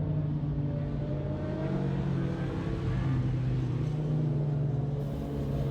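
Motorcycle engines running at a racetrack, one steady low engine note under higher engine notes that slowly rise and fall as bikes accelerate.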